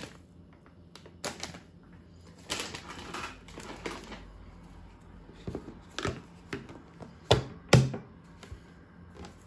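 Kitchen storage containers and dry-goods packets being handled: scattered clicks and knocks, with two sharp knocks close together about three-quarters of the way through.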